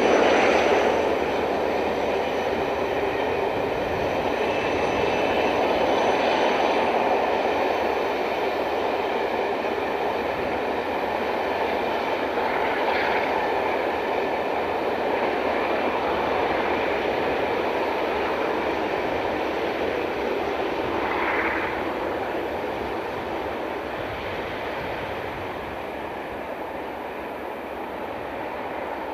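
A Class 47-hauled train rolling past, its coaches' wheels and bogies making a steady rumble on the rails, with brief higher-pitched squeals or screeches a few times. The sound eases off over the last few seconds as the train draws away.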